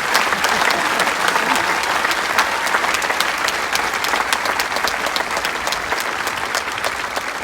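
Tennis crowd in the stands applauding, a dense patter of hand claps that slowly dies down toward the end, with a few cheers mixed in early.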